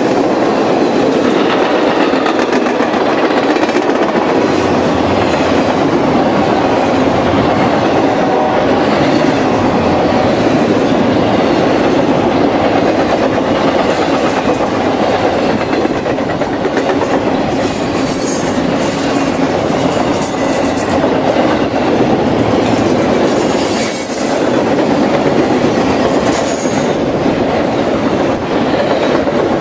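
Railroad passenger coaches and loaded flatcars rolling past: a steady, loud rumble and rush of steel wheels on the rails, with occasional clacks.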